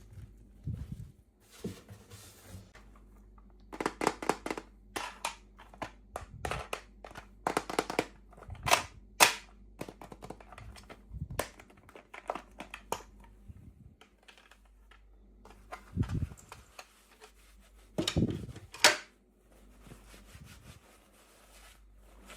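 Irregular sharp clicks and snaps of small plastic toy packaging and pieces being handled and opened. They come in quick clusters through the middle and again near the end.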